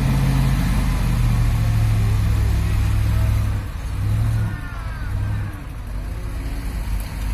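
Heavy truck's diesel engine running hard at a steady pitch, then easing off about three and a half seconds in, followed by two short blips of throttle.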